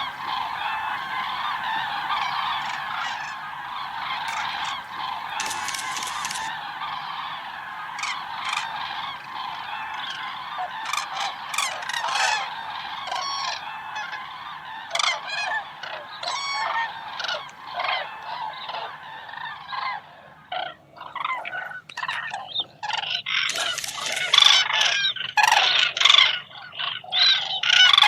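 A flock of cranes calling: a dense chorus of many overlapping calls that thins after about twenty seconds into separate, louder calls near the end.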